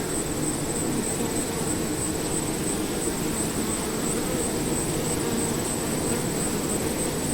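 Steady outdoor ambience from an owl-hooting field recording: a constant low rumble with an unbroken high, thin whine above it, and no distinct hoot standing out.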